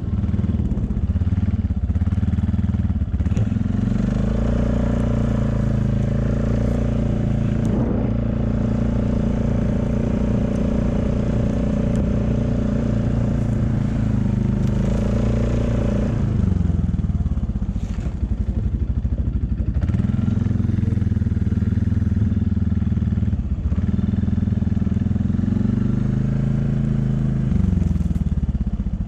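A motor vehicle's engine running steadily under load. The engine note drops about two-thirds of the way through, picks up again and drops once more near the end.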